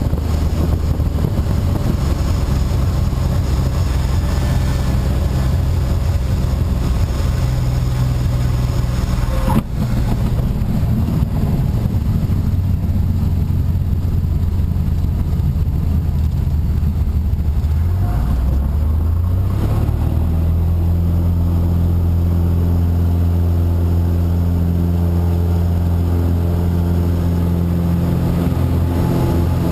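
Cessna 180's Continental six-cylinder engine and propeller heard from inside the cabin, running steadily over a loud rush of noise. A single sharp knock comes about ten seconds in. Around eighteen seconds in, the engine note rises as power comes up, then holds steady at the higher pitch.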